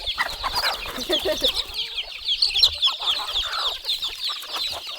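Chickens clucking, over a constant dense chatter of short, high chirps.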